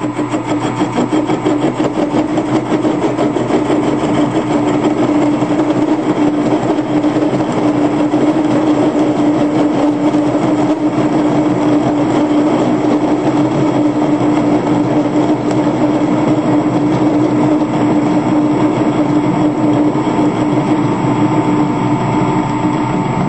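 Converted Harbor Freight 10 x 18 wood lathe running steadily while a carriage-mounted tool takes a facing cut across the end of a workpiece. It makes a steady hum with one strong steady tone under a dense, rapid rattle.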